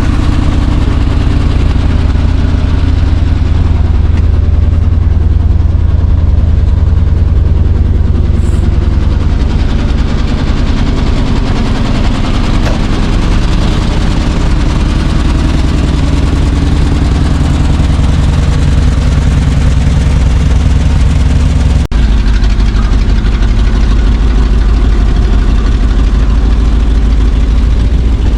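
Large old truck engine running steadily at a low, even speed. About three quarters of the way through it breaks off for an instant and comes back with a slightly heavier low rumble.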